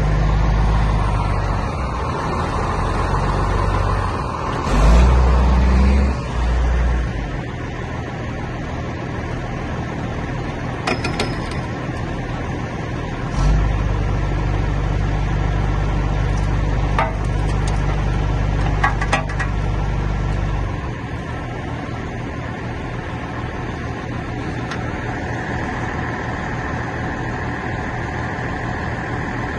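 Truck engine running steadily, getting louder briefly about five seconds in and again for about seven seconds from about thirteen seconds in, with a few faint clicks.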